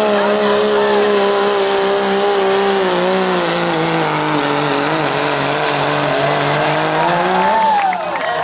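Turbocharged diesel pickup truck pulling a sled at full throttle: a loud, steady engine note with a high turbo whine, the engine's pitch sagging gradually as the load builds. Near the end the throttle comes off and the turbo whine falls away sharply.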